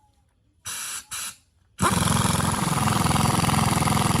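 A power tool with a fast, even rattle, blipped twice briefly about a second in, then held on loud and steady.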